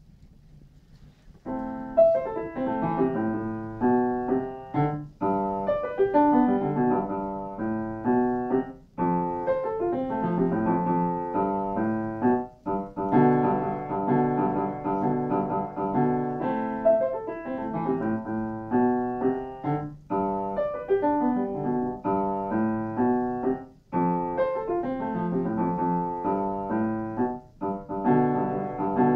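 Solo piano playing a flowing piece built on repeated broken-chord figures, starting about a second and a half in.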